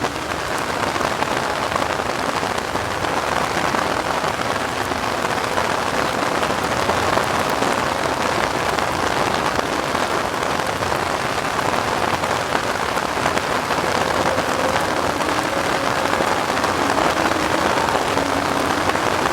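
Heavy rain falling steadily, a dense, even hiss of rain.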